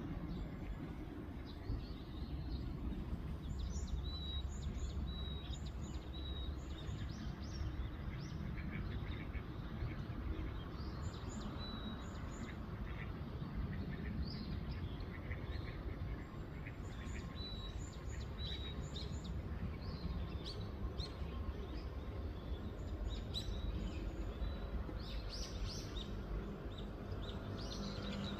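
Small wild birds chirping and giving short whistled calls again and again, over a steady low outdoor rumble.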